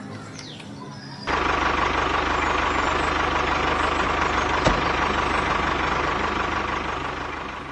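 A vehicle motor starts abruptly about a second in and then runs steadily, with a fast low pulsing and a steady whine, fading near the end. Faint music and bird chirps come before it.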